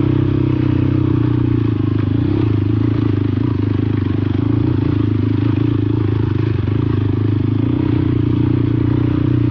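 Motorcycle engine running at a steady speed, with a little rattle over a rough track.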